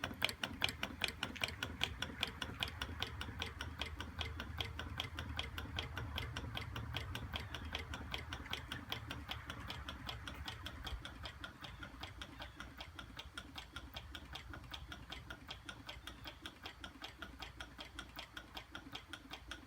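Hot air engine running, its mechanism making a steady rhythmic clicking of about four to five beats a second over a low hum. The hum eases off about halfway through.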